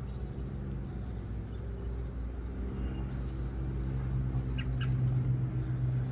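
Crickets trilling in one steady high-pitched note, over a low steady hum, with a couple of faint short chirps about four and a half seconds in.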